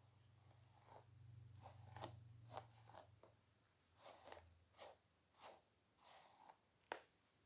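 Hair being handled: a run of faint, soft crackly rustling strokes, about a dozen in all, with one sharper crackle near the end. A faint low hum sits underneath for the first three seconds.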